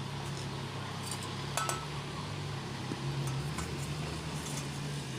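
Light metallic clinks of tools and metal parts being handled, a few separate ones with the sharpest about one and a half seconds in, ringing briefly, over a steady low hum.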